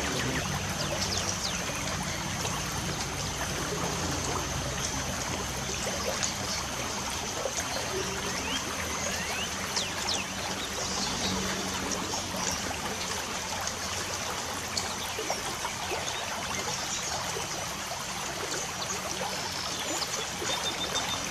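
Light rain falling steadily, with short bird chirps scattered through it and a thin, steady high-pitched tone above.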